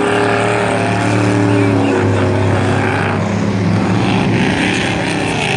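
Several dirt-track race trucks racing under power, their engines' pitches rising and falling together as they accelerate and lift.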